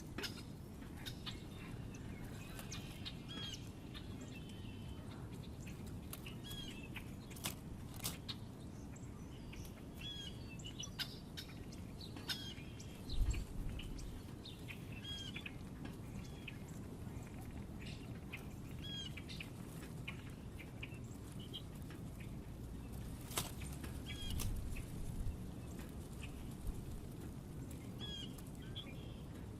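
Small birds at a feeder chirping in short, repeated calls, with scattered sharp clicks and wing flutters, over a low steady rumble. A single low thump comes a little before halfway.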